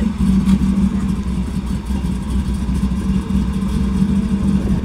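A car engine idling, loud and steady, with no rise or fall in speed.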